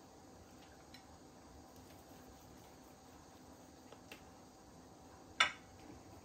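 A sharp clink of kitchenware about five seconds in, with a few faint clicks before it, over a low steady hum.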